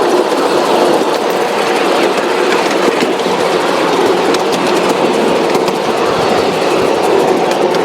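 Train rolling along the track: a steady running rumble with a quick, irregular clicking of wheels over the rails.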